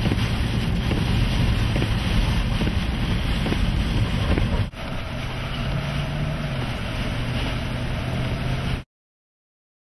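Strong wind rushing over the microphone, with rain and a vehicle engine running underneath, close to a rain-wrapped tornado. The noise drops out for an instant about halfway through, then resumes and cuts off abruptly near the end.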